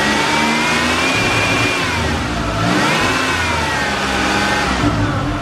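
Buick 3800 V6 in a 1990 Buick Reatta being revved twice, each rev climbing in pitch and then settling back toward idle. It is the engine of a running car, which the seller calls really nice running.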